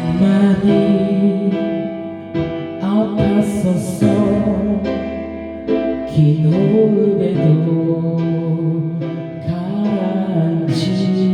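Karaoke backing track playing the song's instrumental intro, with steady sustained chords under a melodic lead line.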